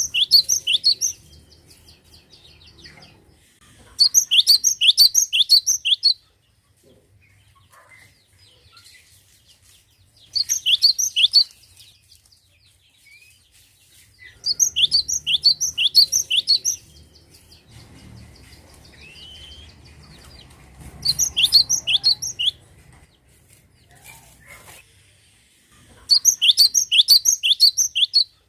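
Cinereous tit (glatik batu) singing: bouts of rapid, high, repeated notes, each lasting one to two seconds, six times with pauses of a few seconds between them.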